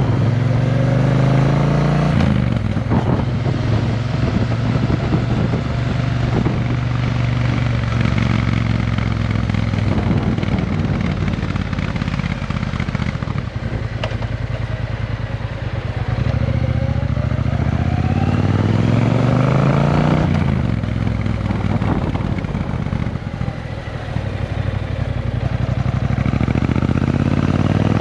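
Triumph Bonneville T120's parallel-twin engine running through a Vance & Hines exhaust with X-pipes. The revs climb slowly and hold, climb again, fall away sharply about twenty seconds in, then rise once more near the end.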